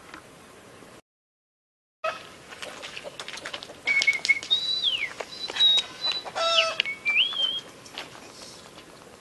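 Birds whistling and calling outdoors: a few short clear calls, some held on one pitch and some sliding down or up, mixed with a scatter of sharp clicks. The sound drops out completely for about a second near the start before the birds come in.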